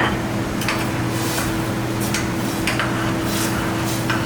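A utensil scraping and knocking in a pan as chicken pieces are stirred into thick butter chicken curry sauce, in a run of short strokes over a steady low hum.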